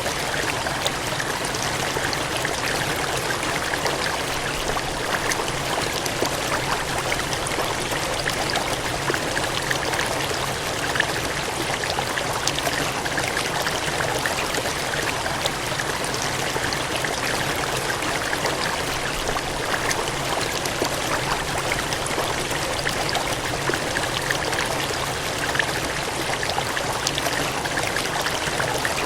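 Water gushing and cascading in a steady flow, with small splashes flecking the even rush.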